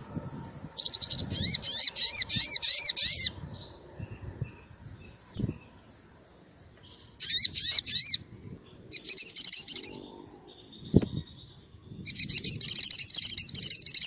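Sogon (sogok ontong, a little spiderhunter) singing in four bursts of rapid, sharp high-pitched chirps, each running a second or two with short pauses between; the first burst is the longest.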